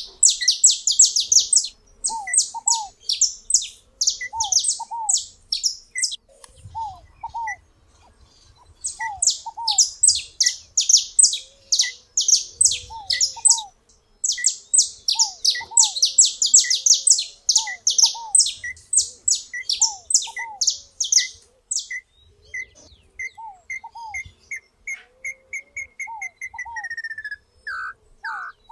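Songbirds singing: runs of rapid, high, downward-sweeping trilled notes lasting a few seconds each with short pauses between, over a lower call repeated at a steady pace. Near the end a run of notes falls in pitch.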